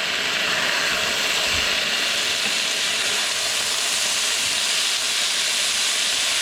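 Chicken pieces sizzling steadily in hot oil in a pan, left unstirred so they brown.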